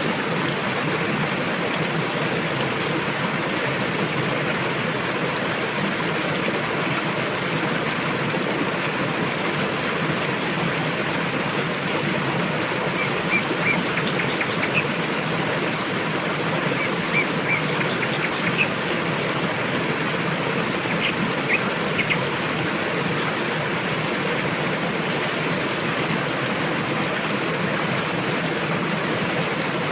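River water rushing steadily. A few small birds give short high chirps in scattered clusters around the middle.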